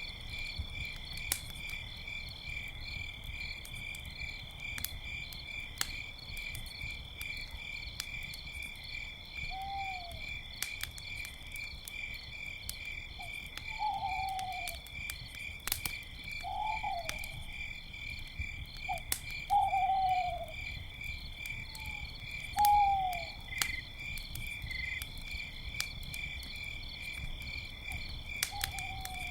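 Owls hooting in a series of short falling calls, starting about a third of the way in. Underneath, crickets chirp steadily and a campfire crackles with sharp pops.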